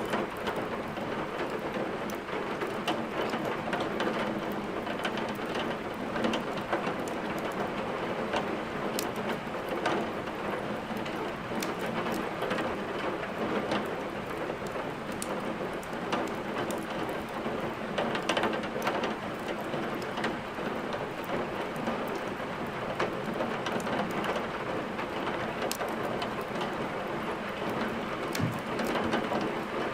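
Steady heavy rain, with sharp crackles and pops from a wood fire scattered irregularly through it.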